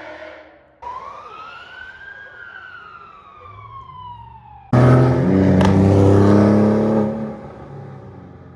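A car's engine passing close by, starting abruptly loud about halfway in, holding for a couple of seconds, then fading. Before it, a high whine rises briefly and then slowly falls.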